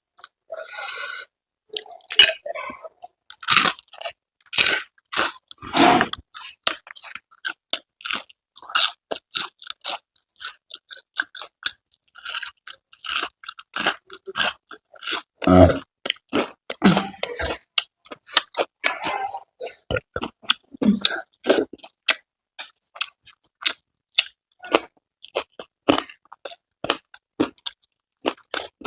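A person chewing and crunching crisp food close to the microphone, with irregular crackling bites and wet mouth sounds.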